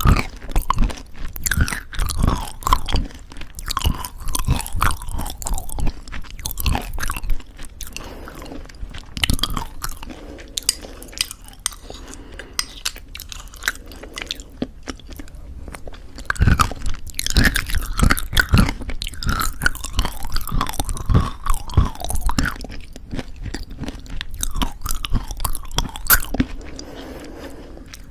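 Close-miked chewing of crunchy homemade granola in thick yogurt: dense, irregular crunching and wet mouth sounds, quieter for a few seconds midway before picking up again.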